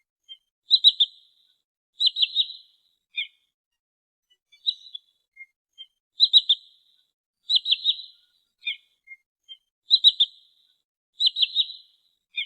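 Sandpiper (trinil) calls used as a bird lure: repeated quick clusters of two or three high, sharp piping notes, one cluster every one to two seconds, with softer single notes in between.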